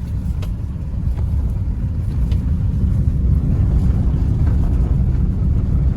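Steady low road rumble of a car in motion, heard from inside the cabin.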